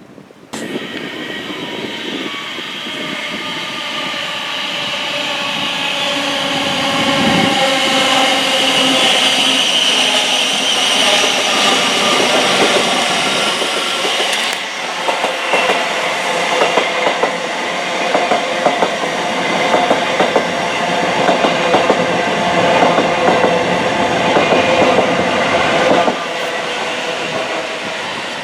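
Portsmouth-line electric passenger train running past. It gives a whine of several steady tones, with wheels clicking over the rails in the second half, and eases off near the end.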